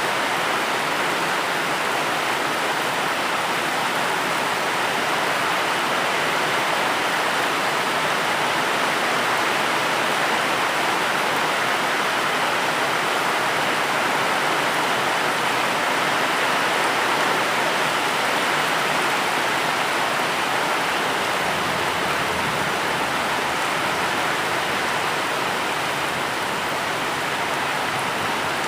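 Steady heavy rain, a dense even hiss with no distinct drops standing out.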